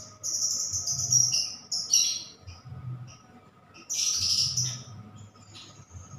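Birds chirping and twittering in short high bursts, loudest about four seconds in, over a faint low pulse that comes round every second or two.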